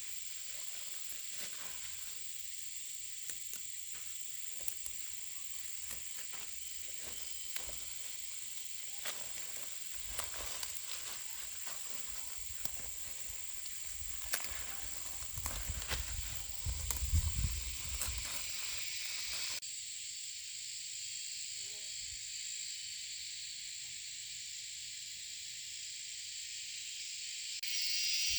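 Steady high-pitched hiss with scattered light clicks and a few low knocks about two thirds of the way through; the sound changes abruptly near the end as if at a cut.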